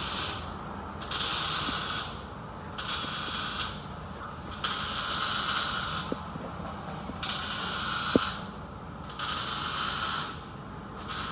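Hand ratchet wrench worked in about six rasping spells of roughly a second each, a second or so apart, as bolts are run in during a muffler install. A single sharp knock sounds about eight seconds in.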